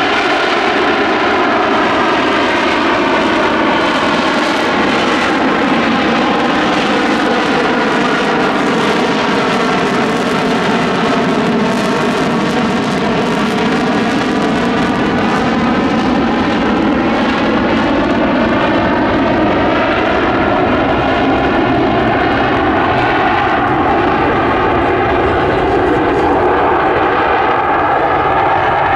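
US Marine Corps F-35B Lightning II hovering, its F135 jet engine and shaft-driven lift fan running loud and steady, with a slow sweeping, phasing quality to the tone.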